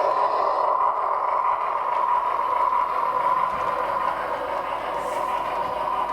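Steady train running noise: a continuous hiss with a strong, even hum running through it.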